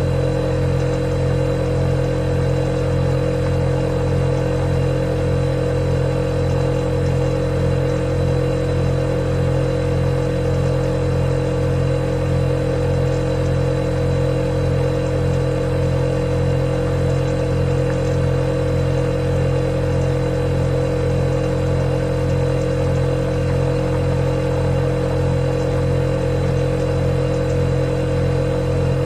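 Refrigerator compressor humming steadily, a low hum with a higher tone above it.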